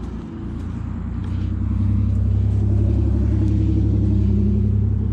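A motor vehicle's engine running close by, a low steady rumble that grows louder over the first two seconds and then holds.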